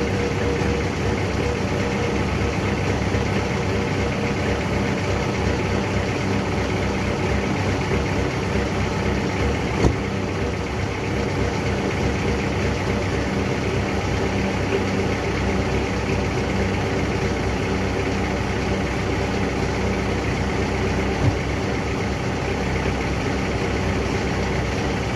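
Ford Ranger 2.5 L four-cylinder turbo diesel idling steadily in the first minute after a cold start at −4 °C, the engine still cold. Two brief sharp ticks stand out, about ten and twenty-one seconds in.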